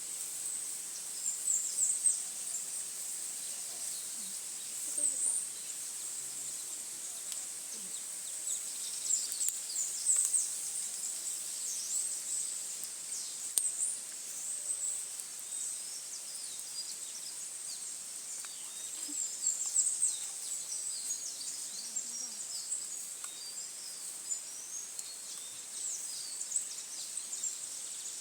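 Forest ambience: a steady high-pitched insect drone, with many short, high bird chirps that come and go in clusters.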